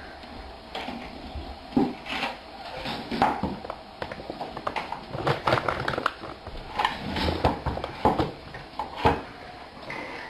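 Irregular clicks, knocks and clatter in a small room, several to a second at times, with a few louder thumps.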